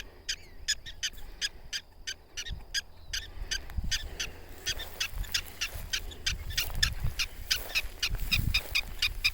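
Black-tailed prairie dogs giving rapid, repeated high-pitched alarm chirps, about three or four a second, growing busier after about four seconds. It is their alarm call at people being too close.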